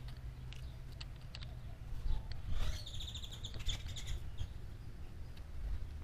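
A bird giving a rapid trill of quick, high repeated notes, lasting about a second and a half and starting a couple of seconds in, over a steady low rumble.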